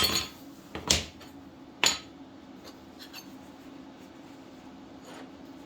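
Steel practice pieces clanking against metal as they are handled and set down: three sharp metallic clanks in the first two seconds, then a few faint ticks over a steady low hum.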